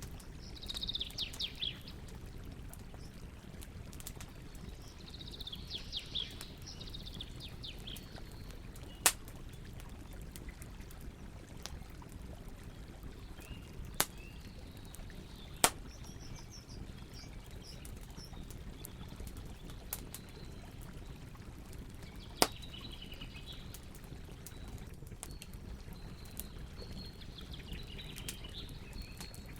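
Campfire burning with a steady low hiss and occasional sharp crackling pops, four of them much louder than the rest. Small birds chirp in short bursts of quick high notes: at the start, about six seconds in, and again near the end.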